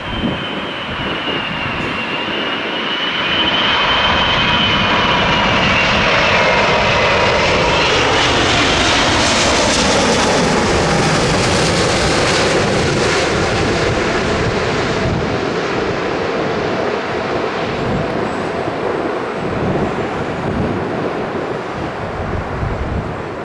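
Jet airliner passing close overhead: its engine noise swells over the first few seconds with a high whine, then the whine slides down in pitch as the aircraft goes by, and the noise slowly eases off.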